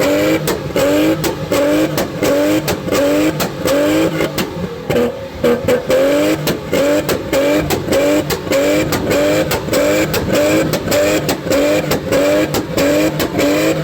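Car engine revved in quick repeated bursts, its pitch rising about twice a second, with sharp exhaust pops and cracks running through it, like an engine bouncing off its rev limiter.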